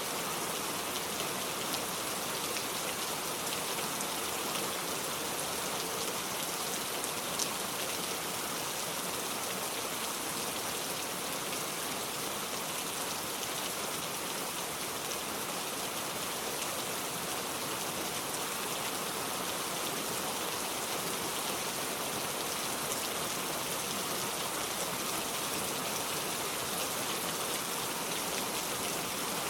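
Steady rain falling, an even hiss with fine scattered drop patter, and one brief tick about seven seconds in.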